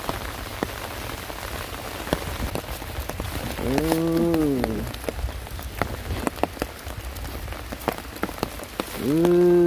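Rain falling steadily, with many scattered sharp drop ticks. Two long, low calls that rise and then fall in pitch stand out above it, one about four seconds in and one near the end.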